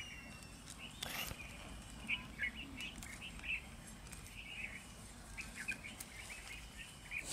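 Small birds chirping in short, scattered calls, with a brief rustle about a second in.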